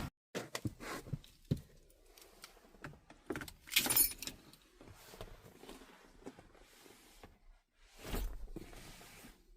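Scattered light clicks and rustles of small objects being handled, with a louder rustle about four seconds in and another near the end.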